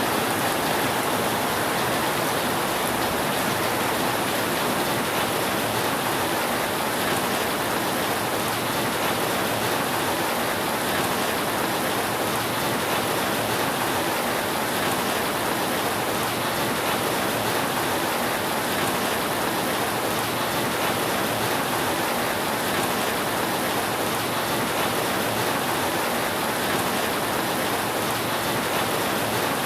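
Steady rain falling on a roof, a dense, even hiss that keeps the same level throughout, with no thunder claps.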